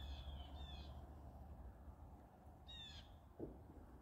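Faint bird calls: a pair of short, falling calls at the start and another about three seconds in, with one soft thump just after.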